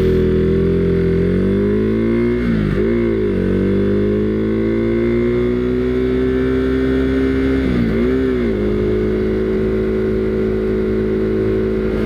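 Husqvarna Svartpilen 401's single-cylinder engine accelerating on the move, its pitch climbing, with quick drops at gear changes about three seconds in and again near eight seconds. Wind noise runs underneath.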